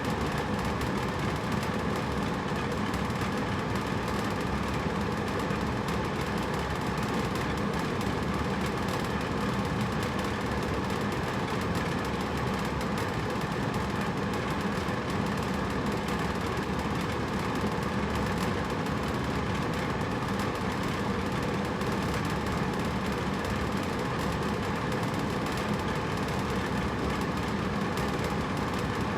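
Hotel room air conditioner running steadily: an even rushing of air with a constant low hum from the fan and compressor.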